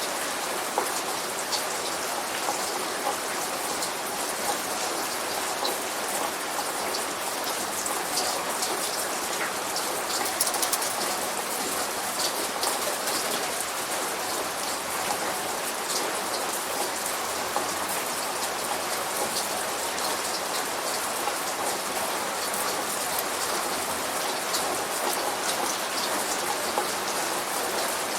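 Steady light rain falling, with the ticks of single drops scattered through it.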